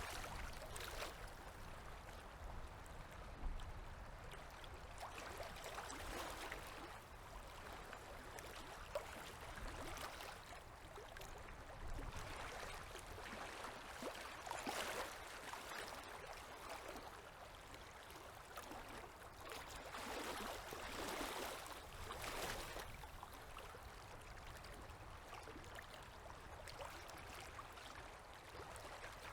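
Small river waves lapping, a soft wash of water that swells and fades at irregular intervals.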